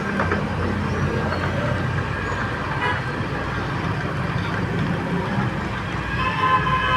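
Excavator's heavy diesel engine running steadily amid street traffic, with a vehicle horn sounding briefly about three seconds in and again near the end.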